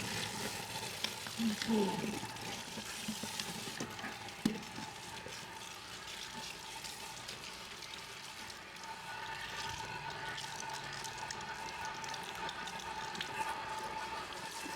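Running water spraying onto hair and scalp during a hair wash, a steady hiss with a faint steady whine underneath.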